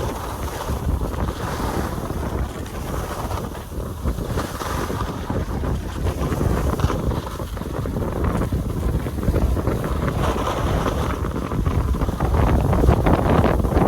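Skis sliding and scraping over packed snow during a downhill run, with wind rumbling on the microphone. It grows louder and scratchier near the end.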